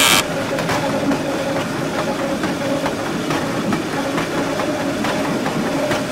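Train running on rails: a steady rumble and hum with faint, irregular clicks. A burst of harsh rattling noise breaks off right at the start.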